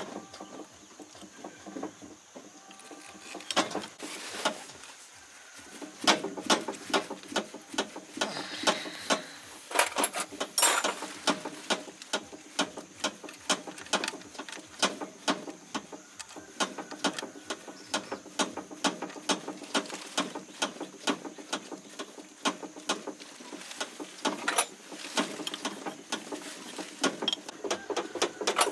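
A quick, uneven series of light taps and clicks, about two to four a second, from hand work on metal machinery.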